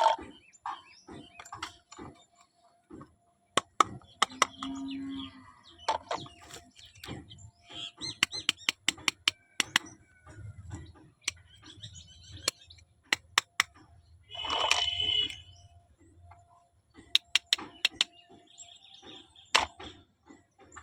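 Small miniature toy kitchen pieces clicking and tapping against each other as they are handled, with rustling between the taps and a louder scraping patch near the three-quarter mark.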